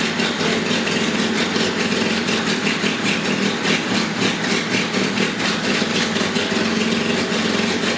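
Fiat 127's four-cylinder engine idling steadily during its first run.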